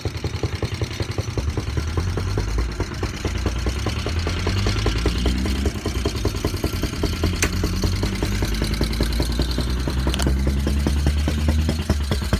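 Old Briggs & Stratton single-cylinder engine on a motorized bicycle running with a rapid, even firing beat; about two seconds in it speeds up and holds higher, then drops back to idle near the end.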